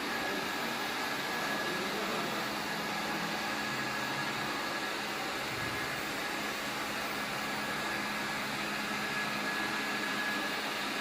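Robot vacuum cleaner running: a steady whirring buzz of its suction motor, with a thin high whine and a low hum under it.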